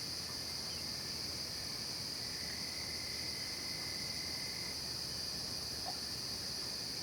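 Night chorus of crickets and other insects in late-summer woodland: a steady, high-pitched, unbroken trilling, with a fainter, lower steady tone for about two seconds midway.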